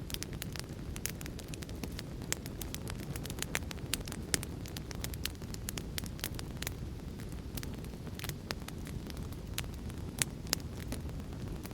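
Fire crackling: a steady low rumble of burning with many irregular sharp crackles and pops, a few louder snaps scattered through.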